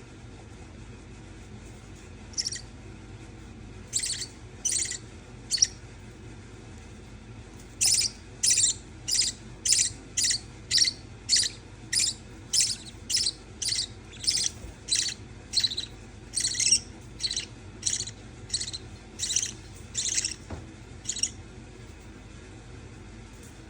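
Budgerigar giving a series of short, scratchy high-pitched calls: a few scattered at first, then a steady run of about one and a half calls a second that stops a couple of seconds before the end.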